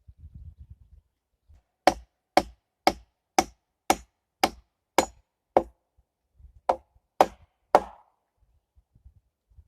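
Wood being struck with a hand tool in a run of eleven sharp blows, about two a second, with a short pause after the eighth.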